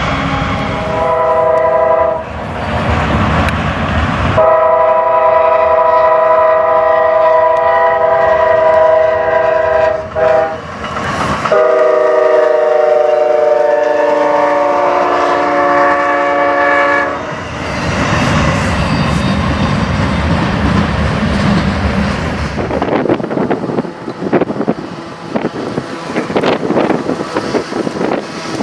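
Locomotive air horn sounding a chord of several notes: a short blast, then two long blasts, the last sagging a little in pitch. Then the rumble and clickety-clack of a train's wheels going by on the rails.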